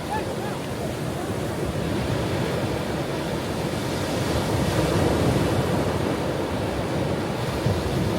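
Ocean waves washing onto a shore: a steady rush of surf that builds to a louder wave about halfway through, then eases back.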